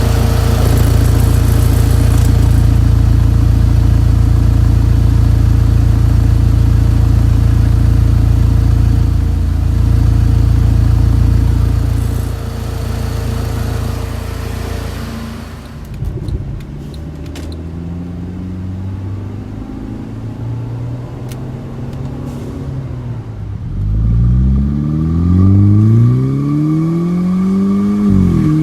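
Turbocharged Mercedes C250 (W204) engine with its electric exhaust cutout open, so it runs almost straight-piped, on a loud cold-start high idle. About halfway through it settles to a lower idle. Near the end it is blipped once, the pitch rising and falling back.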